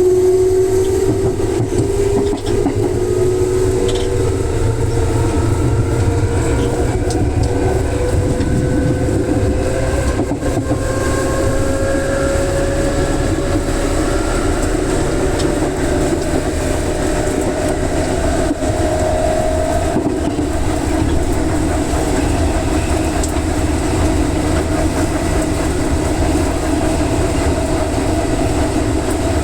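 Electric commuter train running on the JR West Yamatoji Line, its motor whine rising slowly in pitch over about twenty seconds as it accelerates and then holding steady, over continuous rolling noise from the wheels and rails.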